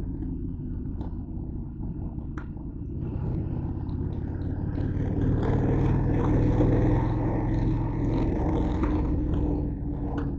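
Honda Varadero motorcycle's V-twin engine running under way, with a continuous rumble. It grows louder from about four seconds in, as if pulling harder, then eases back near the end.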